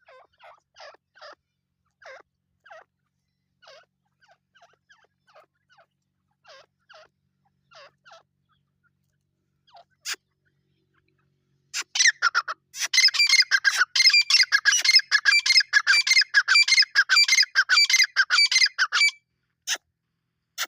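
Teetar (francolin partridges) calling. Soft, scattered short notes come for the first ten seconds, then about twelve seconds in a loud, rapid, crowded run of calls goes on for about seven seconds.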